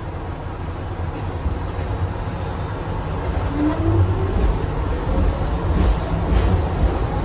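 Kawasaki R62 subway car's traction motors whining, the pitch climbing steadily from about halfway through as the train picks up speed. Underneath runs a low rumble of the wheels on the track.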